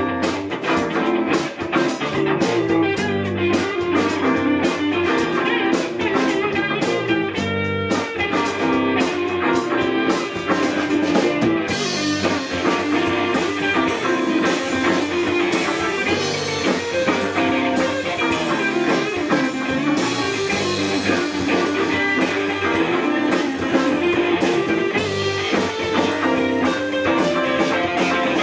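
A live rock band playing an instrumental stretch, with guitar over a drum kit. The sound gets brighter and fuller about twelve seconds in.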